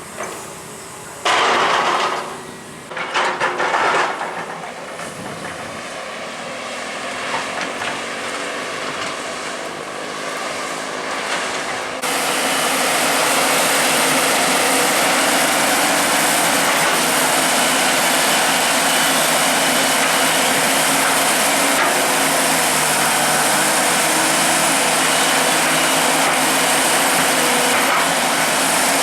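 Komatsu excavator's diesel engine running under load, with two short loud hissing bursts early on. About twelve seconds in the sound steps up suddenly to a steady, loud engine note that holds to the end.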